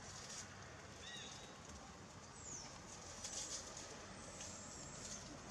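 Faint outdoor ambience with a few short, high bird chirps, one about a second in and a thin falling whistle a little later, over a steady hiss, with some brief crackling like leaves rustling near the middle.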